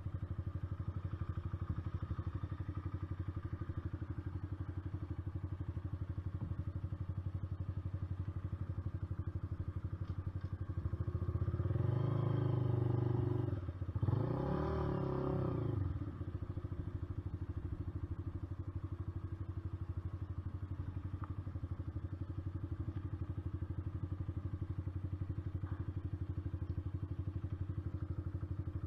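Honda CBR125R's single-cylinder four-stroke engine running steadily at low revs. About halfway through the revs rise, break off briefly, rise again and then drop back to the steady low note.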